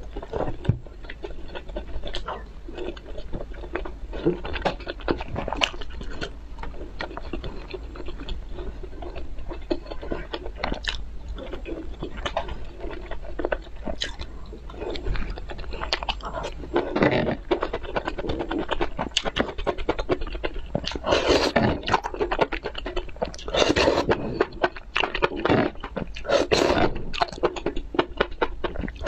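Close-miked eating: wet chewing and mouth sounds, with a fork clicking and scraping against the plate. The chewing gets louder and denser in the second half as a forkful of sauced mushroom strands is eaten.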